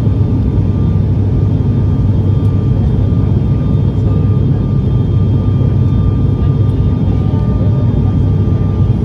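Inside the cabin of an ATR 72 turboprop airliner in flight: a steady, loud propeller and engine drone, deepest and strongest low down, with faint steady whines above it.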